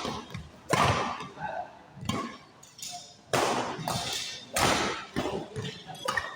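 Badminton rackets striking a shuttlecock during a rally: four sharp hits about a second and a quarter apart, each echoing in a large sports hall, with lighter taps between.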